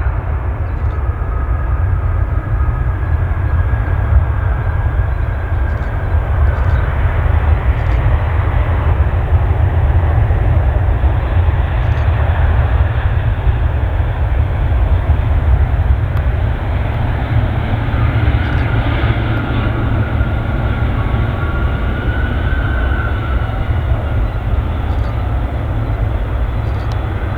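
Boeing 777-300ER's GE90 jet engines running, a steady loud rumble with a faint whine that comes and goes.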